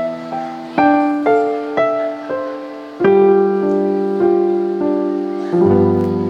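Piano accompaniment playing a short run of struck notes and chords, then a final low chord about five and a half seconds in that rings on.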